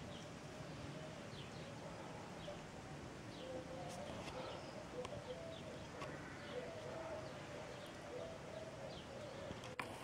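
Birds calling: short high chirps every second or so, with a low, wavering call joining in about three seconds in and running on, over a faint steady background hiss.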